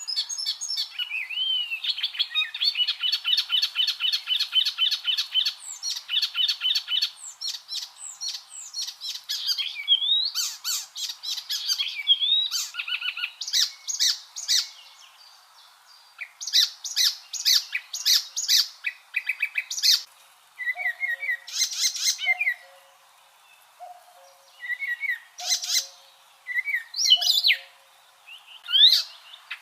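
Icterine warbler singing a long, varied song of chattering, whistled and gliding notes. A fast, even trill runs for the first several seconds, followed by separate short phrases with pauses between them.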